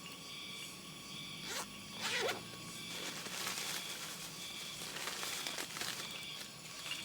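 Insects chirping in a steady repeating pulse, about one chirp a second, with rustling noises over it, loudest about two seconds in.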